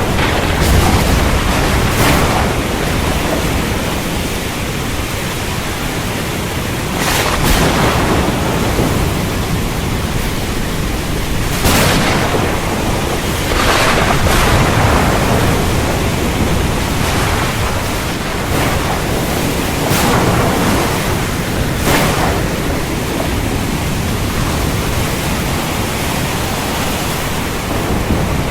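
Heavy rain falling steadily under a low thunder rumble, broken by several brief sharp cracks.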